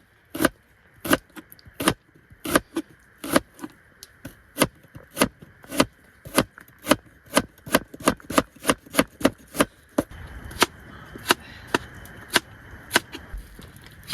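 Irregular sharp taps or ticks, two or three a second, over a faint steady high drone. A soft rushing noise comes in about ten seconds in.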